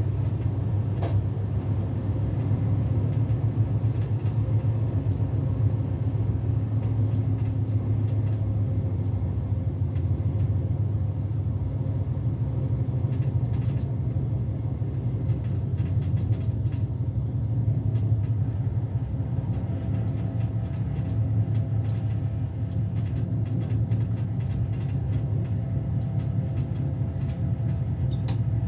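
Electric S-Bahn train running along the track, heard from the driver's cab: a steady low rumble of wheels on rail, with scattered clicks and ticks that come more often in the second half.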